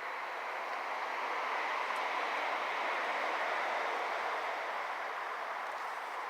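A passing vehicle: a smooth rushing noise that builds to its loudest about three seconds in, then eases off.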